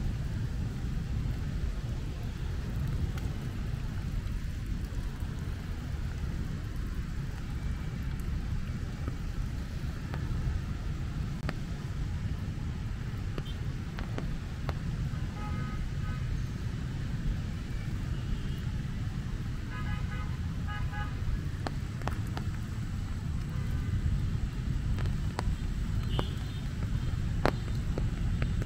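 Rain falling on an umbrella with scattered sharp drips, over a steady rumble of road traffic. Short horn toots sound a few times, around the middle and again near the end.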